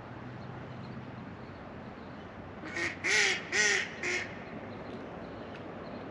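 A duck quacking four times in quick succession about three seconds in, the middle two calls the loudest, over the steady rush of river water.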